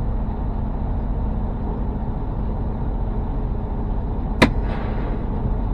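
Steady low rumble of a semi-truck's running engine heard from inside the cab, with a single sharp click or knock about four and a half seconds in.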